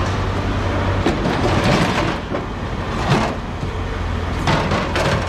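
Heavy machinery engine running steadily with a low hum, with a few short knocks or clanks over it.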